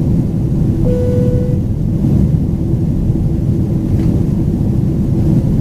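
Steady rumble of a Boeing 767-400ER's General Electric CF6 engines and airflow heard inside the passenger cabin. A short steady tone sounds about a second in.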